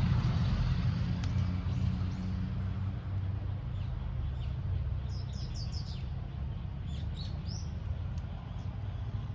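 A bird chirping a quick run of short, high, falling calls about halfway through, over a steady low rumble that fades over the first few seconds.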